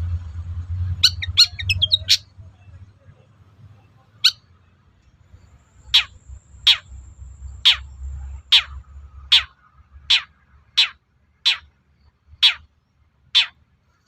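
Long-tailed shrike calling: a quick burst of chirps and trills about a second in, then a run of sharp, harsh calls sweeping downward, repeated about once or twice a second from about four seconds in. A low rumble lies underneath through the first half.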